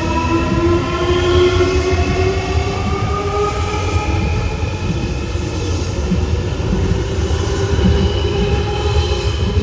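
Electric train's motors whining, the pitch rising slowly as it gathers speed, over a steady low rumble of wheels on rail.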